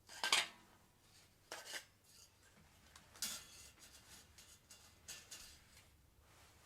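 Light metal clinking and scraping in a few short bursts, the loudest right at the start, then about 1.5 s, 3 s and 5 s in.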